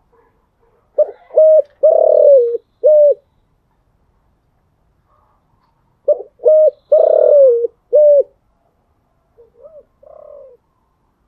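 Spotted dove cooing: two loud four-note coo phrases, each short, short, long, short, about five seconds apart, followed by a fainter, shorter coo near the end.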